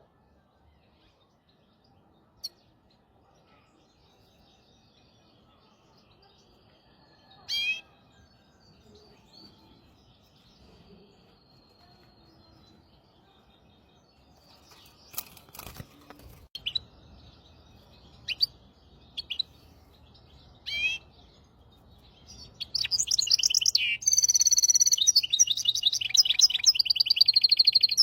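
Hybrid finch (goldfinch × canary mule) singing: a few scattered single chirps, then, from about 22 seconds in, a loud continuous song of fast repeated trills.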